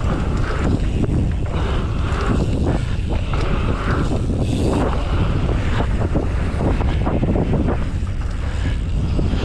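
Strong wind buffeting the microphone: a steady, loud low rumble with irregular gusty surges.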